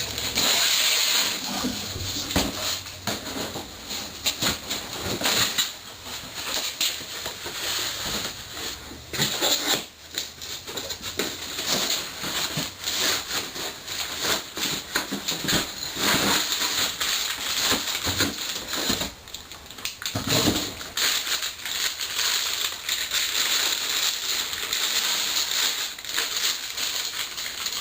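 Packing material rustling and crinkling with scattered light knocks and clicks, as exhaust headers are unwrapped from their shipping box.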